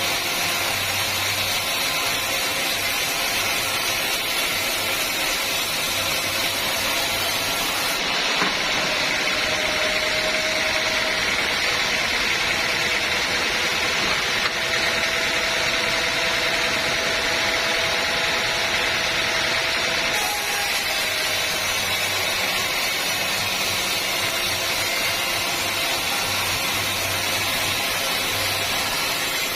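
Sawmill machinery running steadily with a constant mechanical hum and hiss. Its tone shifts a little for about twelve seconds in the middle.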